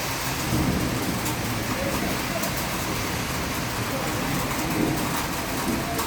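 Heavy rain pouring steadily, with a low rumble swelling underneath about half a second in and again near the end.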